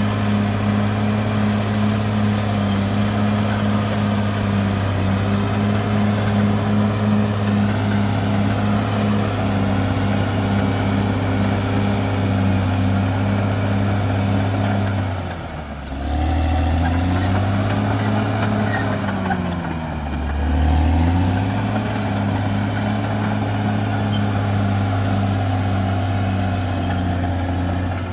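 CAT D6R XL bulldozer's diesel engine running steadily under load. About halfway through, the engine note drops in pitch and recovers, then does so again a few seconds later.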